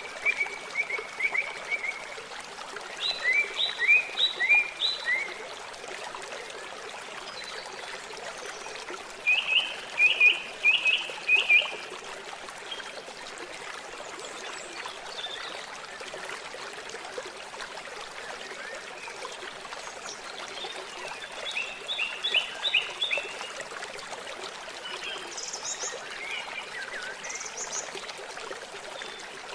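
Steady trickling water, over which a bird sings short bursts of quick repeated notes several times, with a few higher notes near the end.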